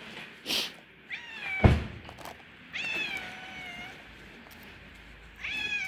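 Stray cat meowing three times: a short meow about a second in, a longer drawn-out one around three seconds, and another beginning near the end. A loud thump about one and a half seconds in is the loudest sound.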